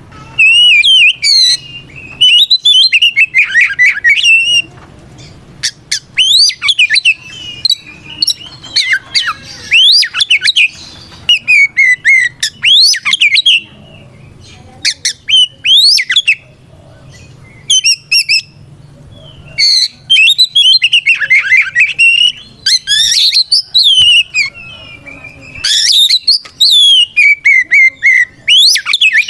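Oriental magpie-robin (kacer) singing its loud 'ngeplong' challenge song: bursts of rapid, varied whistles, sweeping notes and harsh chattering trills, with short pauses between phrases. This is the aggressive song a male uses to call out a rival.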